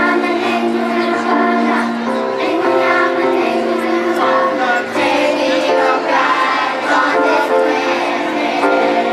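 Children's choir singing a song to musical backing, on sustained notes that move every second or so.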